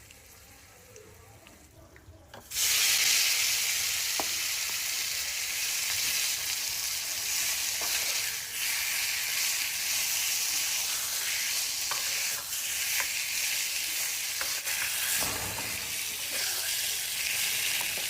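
Marinated chicken sizzling in hot mustard oil in a ladle, the frying starting suddenly about two and a half seconds in as it hits the oil and then holding steady. A few light clicks come from stirring.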